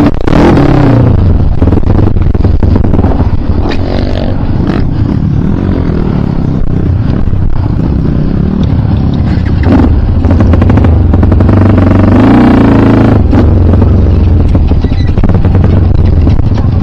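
Dirt bike's single-cylinder engine running loudly while riding a rough trail, its pitch rising and falling with the throttle, with clattering from the bike over bumps.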